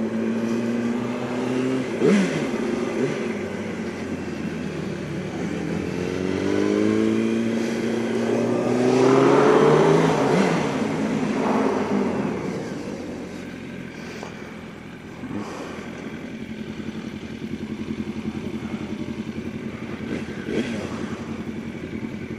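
Motorcycle engines running on a group ride through city streets. One climbs in pitch as it accelerates from about six seconds in, then eases off, and a quieter, regular engine beat runs near the end.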